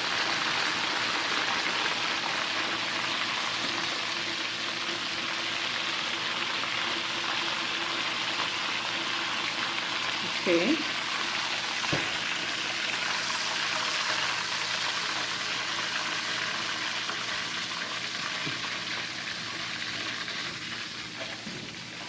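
Breaded chicken schnitzel sizzling steadily as it fries, with a single knock about twelve seconds in. The sizzle eases off slightly near the end.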